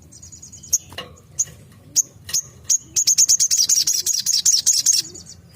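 Sogok ontong (spiderhunter) calling: a few sharp, separate high chirps, then a fast run of high notes from about three seconds in until shortly before the end.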